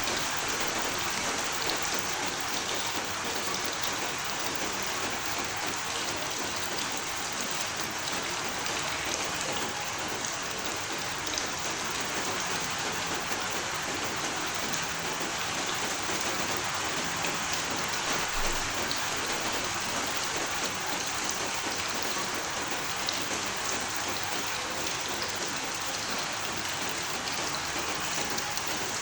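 Steady rain falling, an even hiss with scattered drop ticks on a hard surface.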